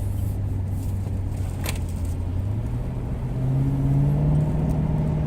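Car engine running, its pitch rising about three seconds in as the car accelerates, with one short click about two seconds in.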